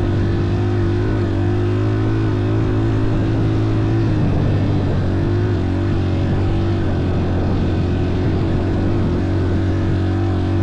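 An engine running steadily, its pitch dipping briefly about four seconds in and then settling back.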